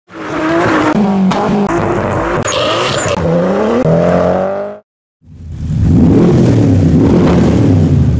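Modified car engines revving, in two cuts: the first engine's pitch rises and falls through several revs and stops abruptly just under five seconds in, then after a brief silence a deeper, rougher engine rumble starts.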